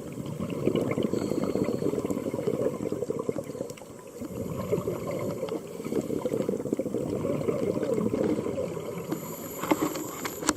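Scuba diver's exhaled bubbles from the regulator, heard underwater as a continuous low gurgling rush, easing briefly about four seconds in.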